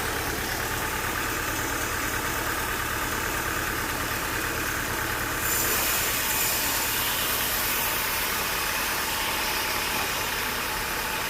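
An engine running steadily, with a hiss in the upper range that grows suddenly louder about halfway through.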